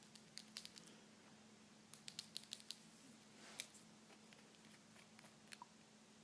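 Glass nail polish bottle being rolled around in the hands: scattered light clicks and taps of glass against fingernails, a quick cluster about two seconds in and a soft swish a moment later.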